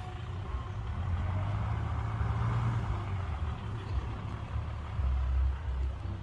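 Heavy diesel engine of earthmoving machinery running with a steady low rumble, with a slight rise in engine noise about two seconds in.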